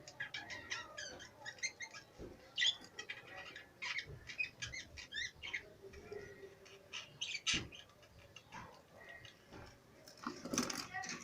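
Many small cage birds chirping at once, short high calls overlapping one after another, with a louder flurry of calls near the end.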